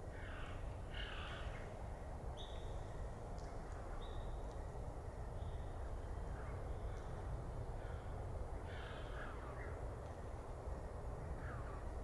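Wild birds calling: a few harsh, caw-like calls near the start and again about three-quarters of the way through, with short, higher chirps scattered in between, over a steady low rumble.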